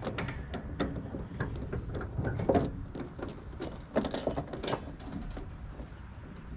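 Irregular mechanical clicking and clattering over a low, steady rumble, with a few louder knocks around the middle.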